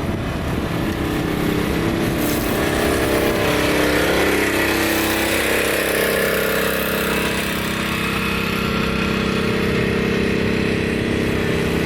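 Engine of a land train running steadily as it pulls its carriages along, with the noise of the moving ride over it; the engine note rises a little a few seconds in and then holds.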